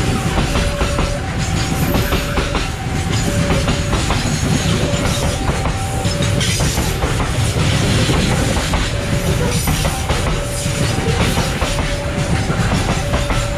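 Open coal wagons of a long freight train rolling past close by: a steady heavy rumble of steel wheels on rail, with clacking over the rail joints. Over it a level-crossing warning alarm repeats a two-note ding-dong.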